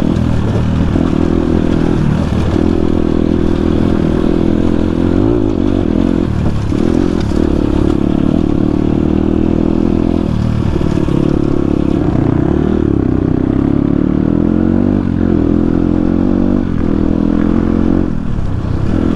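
Dirt bike engine running hard while being ridden off-road, its pitch rising and falling with the throttle and dropping briefly a few times as the rider eases off.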